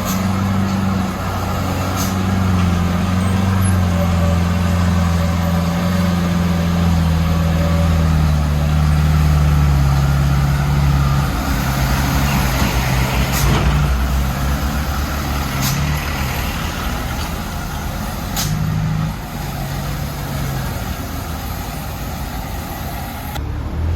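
Heavily overloaded Mitsubishi Canter truck's diesel engine running under load, its pitch sinking slowly through the first half and then holding steady lower. A brief hiss comes about halfway through, and a few sharp clicks are heard.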